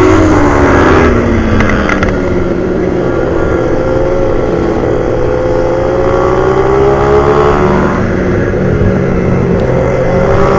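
Motorcycle engine at racing speed. Its pitch drops over the first two seconds as it slows, climbs again from about four seconds in, dips near eight seconds and rises once more near the end.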